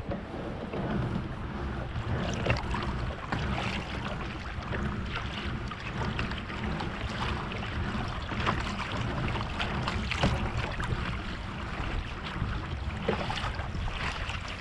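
Water splashing and lapping against a plastic kayak hull on the ocean, with steady wind noise on the microphone and scattered small knocks and ticks.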